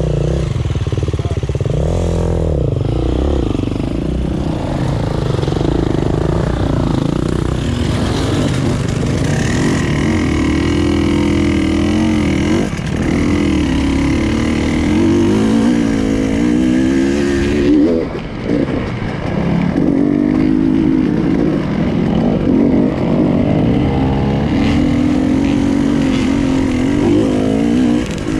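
Enduro motorcycle engine being ridden off-road, its revs rising and falling constantly with the throttle, with a brief drop about two-thirds of the way through.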